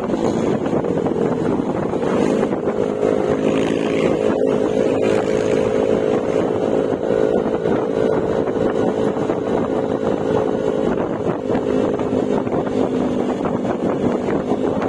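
Yamaha Mio Gravis scooter's 125 cc single-cylinder engine running at a steady cruising speed through an aftermarket Akrapovic exhaust with a silencer insert. The engine note holds nearly level, over wind noise on the microphone.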